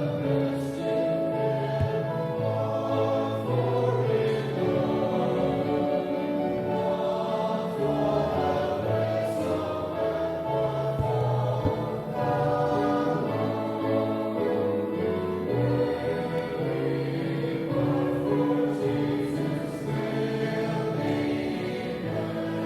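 A small group of voices singing a hymn together, with long held notes.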